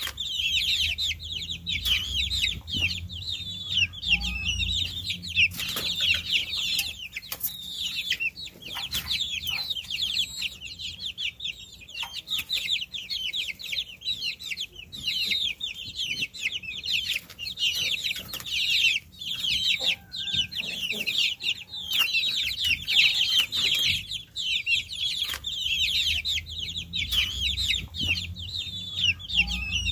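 A brood of baby chicks peeping continuously, many overlapping high-pitched chirps that each fall quickly in pitch, with occasional light clicks.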